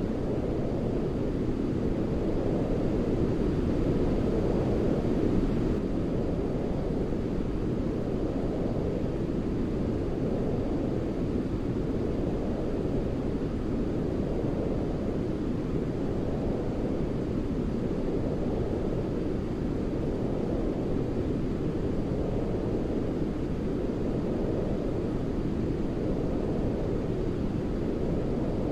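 Steady, deep rushing white noise for lulling a baby to sleep, weighted toward the low end like brown noise, with gentle slow swells every few seconds.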